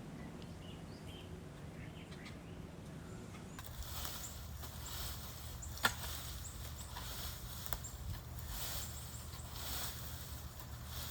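Marigold plants being pulled out of a garden bed: after a quiet stretch, rustling of leaves and stems begins about three and a half seconds in, with a couple of sharp snaps or clicks.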